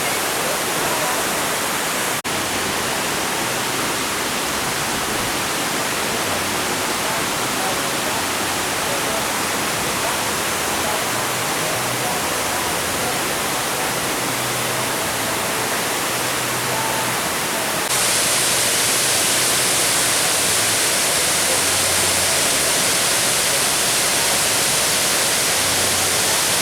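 Waterfall in rainy-season flow: a steady, loud rush of falling water. About two-thirds of the way through it jumps abruptly louder and hissier.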